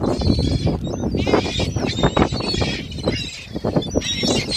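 A flock of birds calling over one another, with many short calls overlapping while they are being fed.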